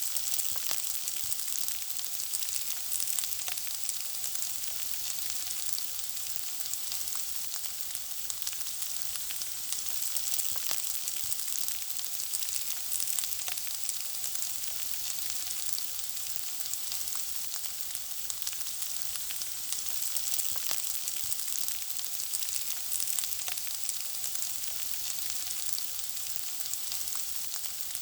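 Food frying in hot oil: a steady, high sizzle full of small crackles and pops.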